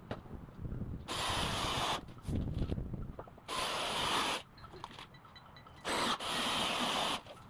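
Power drill running in three bursts of about a second each, working screws or bits into the wood of a beehive box.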